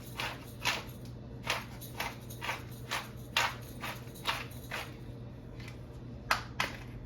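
A pepper container being shaken or worked over the pot: a run of short, sharp rasps about two a second, with two louder ones near the end, over a faint steady hum.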